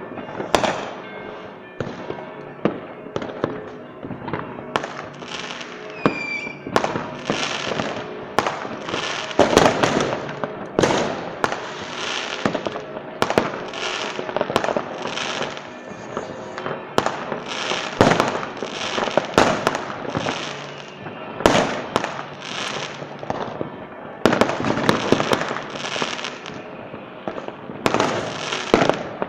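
Fireworks display: aerial shells bursting one after another, about one a second, with crackling tails. There is a short rising whistle about six seconds in, and steady music plays underneath.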